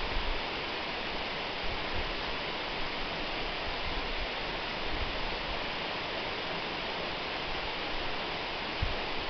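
Waterfall: falling water making a steady, even rush, with brief low thumps of wind or water on the microphone now and then.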